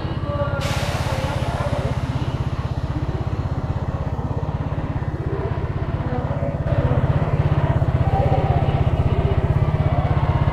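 Italika TC300 motorcycle engine running under way, a steady low pulsing exhaust note that gets louder about seven seconds in. About half a second in, a hiss starts suddenly and fades away over a few seconds.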